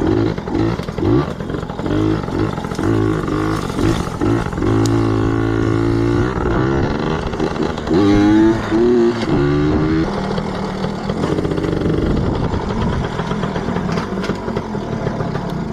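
Yamaha PW80 dirt bike's small two-stroke single-cylinder engine revving up and down in repeated short blips, with a rising rev about halfway through, then running at a steadier pitch.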